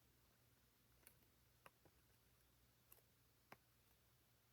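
Near silence with a few faint, scattered clicks of plastic Lego pieces being handled and pressed together.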